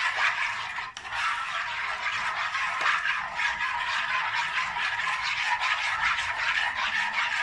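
A utensil stirring a liquid custard mixture in a bowl: a steady, rapid scraping against the bowl, with no pause.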